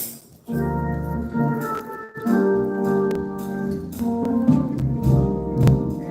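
Gospel song accompaniment: an organ playing held chords, starting about half a second in with a brief break near two seconds, with a few sharp percussion hits over it.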